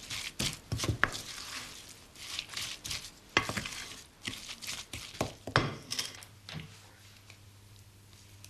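Hands working a soft mixture of grated carrot, margarine and sugar in an earthenware mixing bowl: irregular wet rubbing with scattered light knocks against the bowl, which die away about six and a half seconds in.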